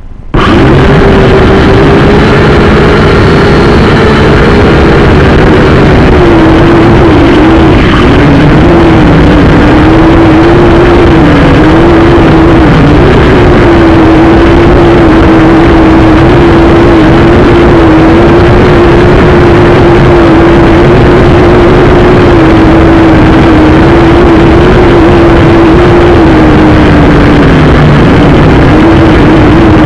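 Syma X5C quadcopter's small electric motors and propellers spinning up about half a second in, then running with a very loud, steady whine whose pitch wavers slightly with the throttle, dipping briefly near the end.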